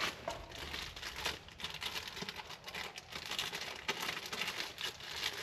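Crinkling and rustling of packaging, with small clicks and knocks throughout, as a new brake wheel cylinder is unpacked and handled.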